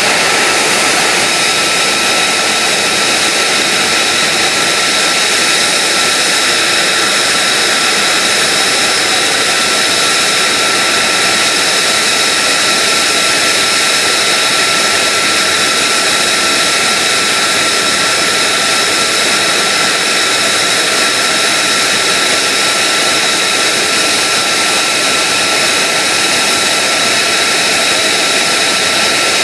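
F-35A Lightning II's Pratt & Whitney F135 turbofan running steadily, a loud even rush with a high whine that holds the same pitch throughout.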